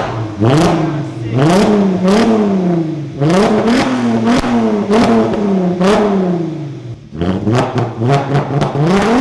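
Audi A3 3.2 VR6 engine, tuned with a stage 1 map and breathing through an almost straight-piped exhaust, revved again and again: quick rises in pitch that fall back each time, with a short lull about seven seconds in.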